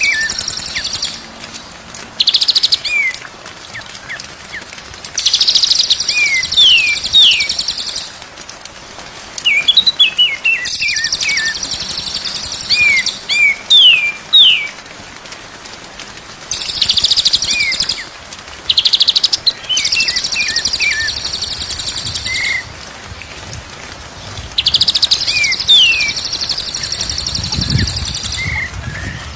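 Songbird song on a masteran training track. Dense, high, buzzy trills about two seconds long recur every few seconds, the loudest parts, with quick falling whistled notes between them.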